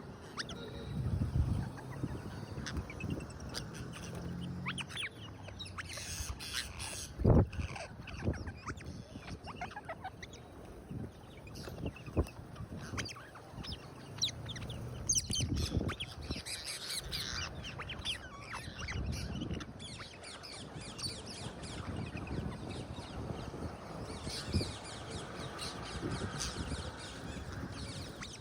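Rose-ringed parakeets squawking on and off in short harsh calls, with scattered knocks and bumps; a sharp knock about seven seconds in is the loudest sound.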